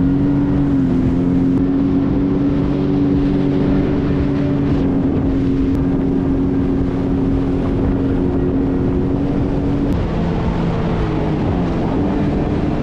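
Jet ski engine running at a steady pitch. It eases off about ten seconds in and picks up again near the end.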